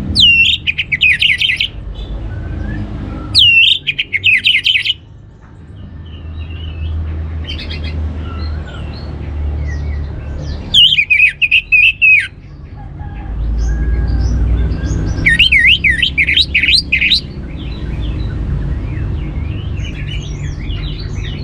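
Orange-headed thrush singing: four loud phrases a few seconds apart, each a quick run of rising and falling notes. Softer chirps come between the phrases, over a low background rumble.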